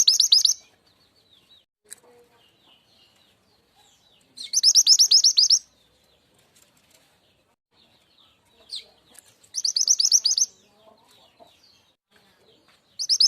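Mantenan gunung (truntung weru) song used as a bird lure: short bursts of fast, high chattering notes, about one burst every four to five seconds, with faint soft chirps between them.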